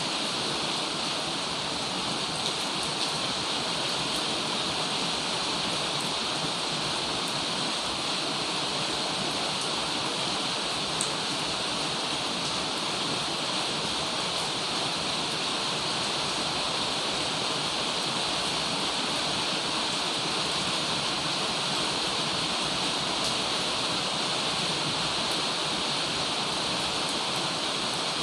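Heavy rain falling in a steady, even downpour, with a few faint drop ticks.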